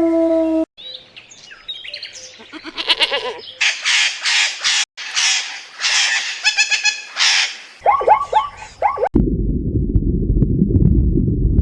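A sequence of separate animal-call clips cut together: mostly bird chirps, trills and short whistled calls, then, about nine seconds in, a loud low rumbling growl cuts in suddenly.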